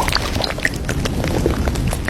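Café ambience: a steady wash of background noise dotted with many small clinks and knocks, like cups and dishes being handled.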